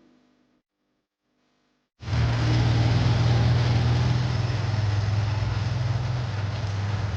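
A motor vehicle's engine running steadily with road or wind noise, cutting in suddenly about two seconds in.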